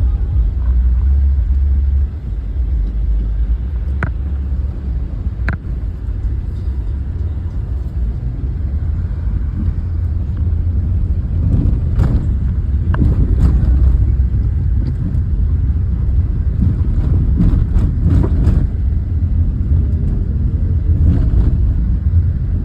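Tractor engines running with a steady low rumble, with a few short sharp clicks scattered through.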